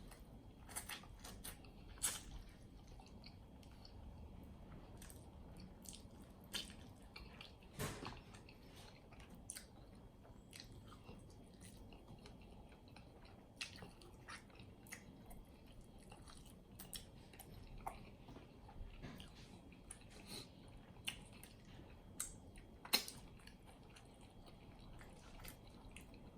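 Close-up chewing and biting of sauce-coated chicken wings: faint wet mouth sounds with scattered sharp clicks and smacks, a few louder ones about 2, 8 and 23 seconds in.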